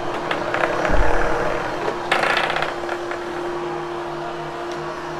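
Hoover Hushtone upright vacuum cleaner running with a steady hum. There is a heavy knock about a second in and a short burst of harsher, rattling noise just after two seconds.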